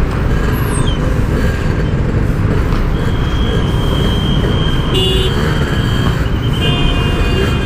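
Yamaha RX-King 135cc two-stroke single running on the move, with a steady rush of engine and wind on the rider's microphone. A horn sounds about three seconds in and holds for a few seconds, and another multi-tone horn sounds near the end.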